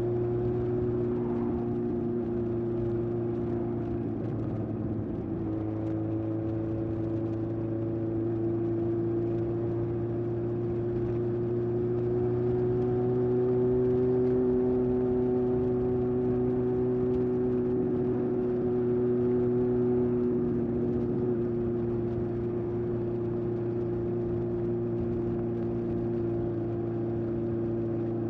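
1981 Honda CB750F's air-cooled four-cylinder engine running through a period Yoshimura exhaust while riding, holding a steady note that rises a little in pitch near the middle and settles back.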